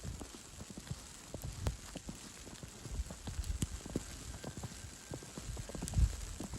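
Footsteps crunching in snow: uneven dull thuds with many small crackling clicks, a heavier step about six seconds in.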